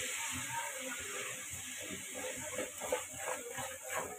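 Onions sizzling in hot oil in a steel pot, a steady hiss with scattered crackles and pops as they are stirred with a slotted steel spoon. The sizzle eases a little in loudness as it goes.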